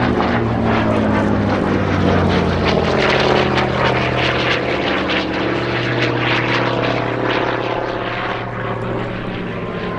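Hawker Fury piston-engined propeller fighter flying by. The engine drones loudly, its pitch drops as it passes, and it fades a little toward the end.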